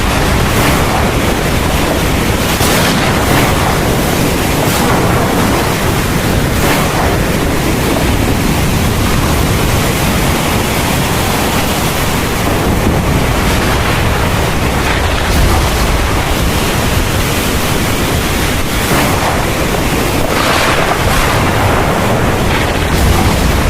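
Heavy thunderstorm rain pouring steadily, a dense even hiss with a low rumble underneath that swells briefly now and then.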